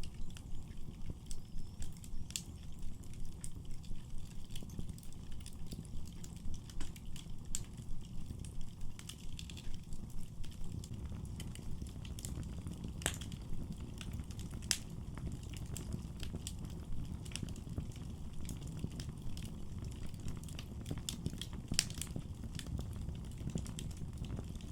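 Wood fire burning in a fireplace: a low rumble of flames with scattered sharp crackles and pops, the loudest about halfway through and again near the end. The rumble pulses unevenly for the first half, then runs steadier.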